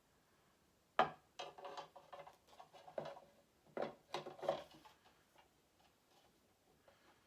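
Hard statue parts clicking and knocking together as they are handled and fitted, a quick run of sharp knocks starting about a second in, the first the loudest, dying away after about five seconds.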